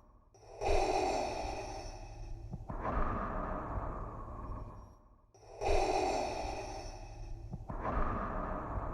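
Darth Vader's mechanical respirator breathing sound effect: slow, hissing breaths through the mask, in and out, with a short pause after each out-breath. Two full breath cycles, about five seconds apiece.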